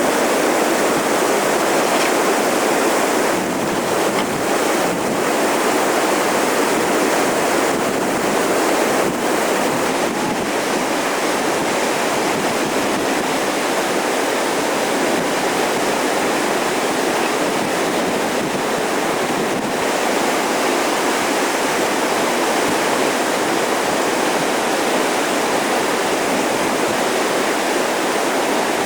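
Whitewater rapids of the Top Youghiogheny River rushing steadily.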